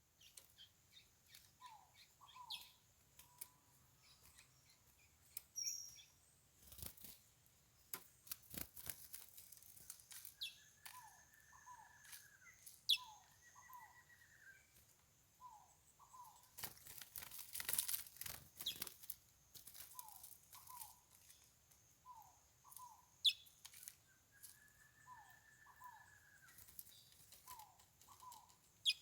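Faint bird calls: short paired chirps repeating throughout, with a few drawn-out arching whistles. Scattered rustles and wing flutters are loudest about seventeen to nineteen seconds in.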